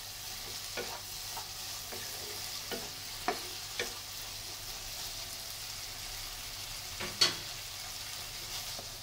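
Spiced chickpeas sizzling in a non-stick wok as a wooden spatula stirs them through the thick masala in the last stage of cooking, with little water in the pan. There is a steady frying hiss with scattered light knocks of the spatula against the pan, and one louder knock late on.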